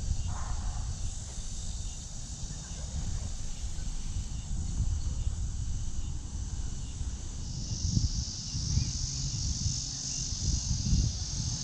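Cicadas shrilling steadily in the trees, growing louder about two-thirds of the way through, over a low rumble with a few soft thumps.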